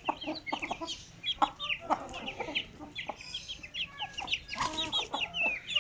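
Aseel chickens: chicks peeping in many short, rapid high cheeps, with lower clucking among them.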